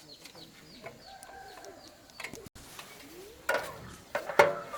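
Chickens clucking, with faint high cheeps in the first half and louder clucks in the last second and a half.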